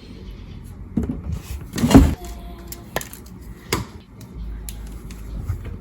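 A few scattered knocks and clunks of things being handled, the loudest about two seconds in, with a low rumble near the end.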